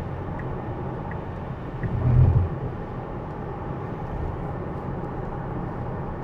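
Steady tyre and rain noise inside a Tesla's cabin on a wet road, with the turn signal ticking about every 0.7 s through the first two seconds as the car changes lanes. A low thump comes about two seconds in.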